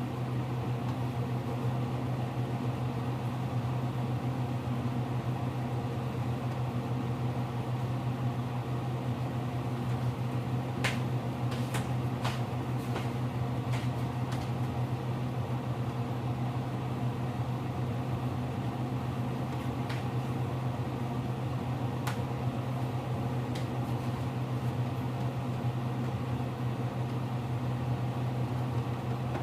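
Kitchen appliance motor humming steadily, with a few light clicks and taps now and then.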